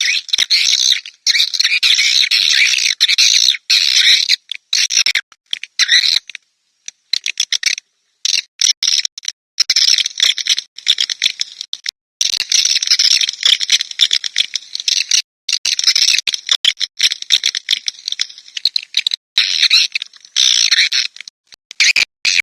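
Swiftlet call recording used as a lure sound: dense, high twittering chirps in bursts of a second or several, broken by abrupt gaps of complete silence where the track has been cut and cleaned of noise.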